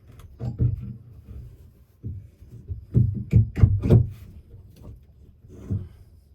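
Irregular knocks, thuds and creaks of wood being worked loose by hand, with the densest cluster about three to four seconds in.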